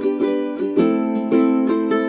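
Background music of a plucked ukulele, picking a run of notes, several a second.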